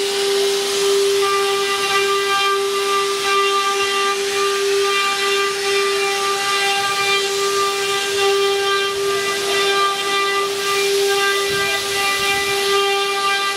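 Spindles of a multi-head 4-axis rotary CNC wood router running with a steady high whine over a constant hiss of the bits cutting wood.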